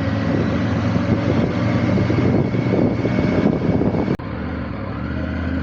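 Motorcycle engine running under way with wind rush over the microphone. About four seconds in, the sound cuts abruptly to a quieter, steadier engine note.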